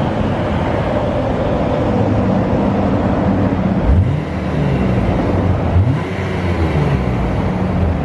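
1998 BMW E36 M3's 3.2-litre straight-six running hard under acceleration. The revs rise and fall, with sharp changes in pitch about four seconds in and again about six seconds in, as at gear changes.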